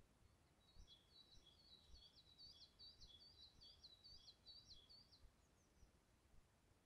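Near silence broken by a faint small bird singing a quick repeated two-note phrase, about three times a second, which stops after about four and a half seconds. Faint wind rumble underneath.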